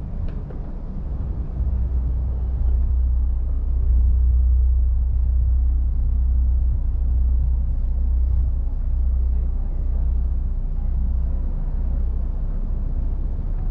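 A steady, loud low rumble with a haze of background noise above it, a little louder from about three seconds in.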